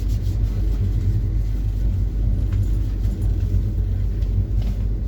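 Moving passenger train running with a steady low rumble.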